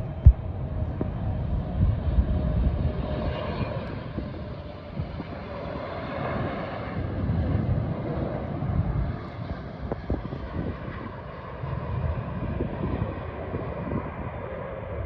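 Boeing 777 freighter's GE90 jet engines running, a steady rumble with a faint whine on top. One sharp click just after the start.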